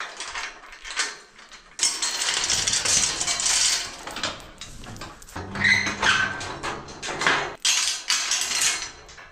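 Steel livestock head catch and gates rattling and clanging in several loud clattering spells, with a brief metallic ring partway through, as the pinned cow is released.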